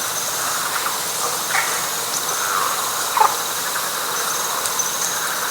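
Night chorus of frogs and insects in wet pine flatwoods: a dense, steady wall of calling with a continuous high trill above it. A few short, louder calls stand out about a second and a half and three seconds in, the last one sweeping down in pitch.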